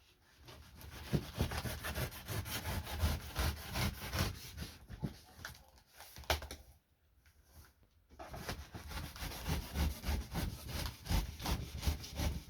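A knife sawing through a taped cardboard shipping box, a run of rapid rasping strokes with a short pause about seven seconds in.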